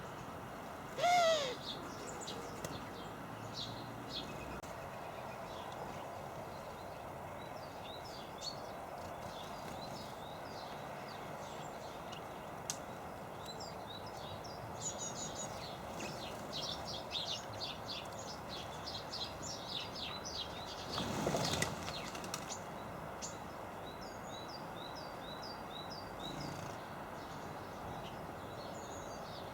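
Small garden songbirds at a feeder making many short, high chirps and twitters throughout. There is one loud falling call about a second in and a brief whir of wingbeats about 21 seconds in.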